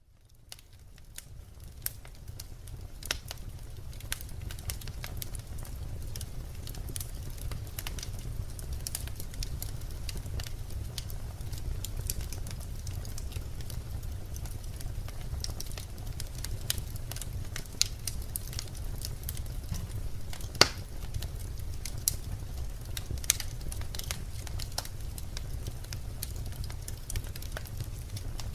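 Birch logs burning in a fireplace: a steady low rumble of flame with scattered crackles and sharp pops of the wood. It fades in over the first few seconds, and one pop about two-thirds of the way through is the loudest.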